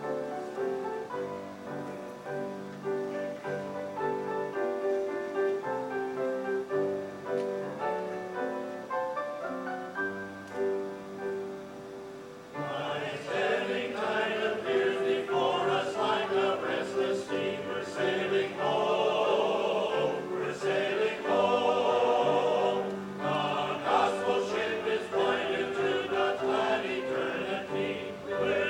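A musical piece begins with held, stepping notes from the accompaniment. About twelve seconds in, a choir comes in singing and the music grows louder and fuller.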